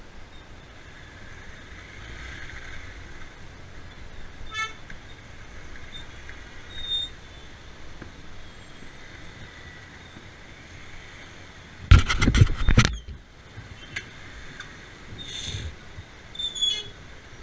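Road traffic in a jam: steady vehicle noise with short horn toots here and there. A loud, rough burst of noise lasts about a second, roughly twelve seconds in.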